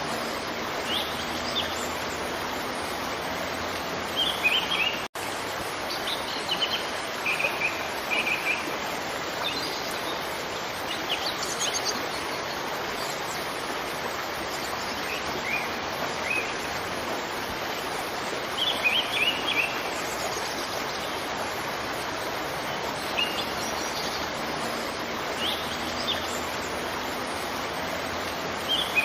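Waterfall rushing steadily, with small birds chirping in short, scattered bursts over it. The sound cuts out for an instant about five seconds in.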